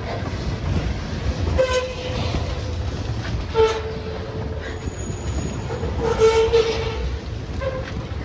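Norfolk Southern freight train rolling past: a steady low rumble with clicks from the wheels and four or five brief tonal squeals.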